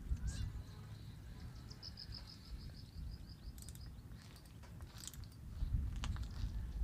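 A bird chirps once, then gives a fast high trill of rapid repeated notes, over a low rumble of wind on the microphone.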